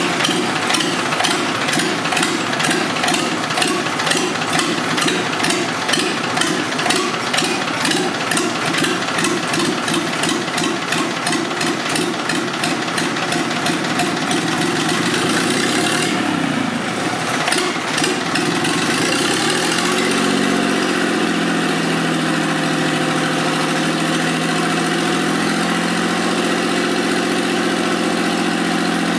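Freshly rebuilt three-cylinder diesel engine of a John Deere 855 compact tractor running just after its first start, made without preheat. At first it runs fast with a rhythmic pulsing clatter. About fifteen seconds in the speed drops, and it settles into a steady, smoother idle.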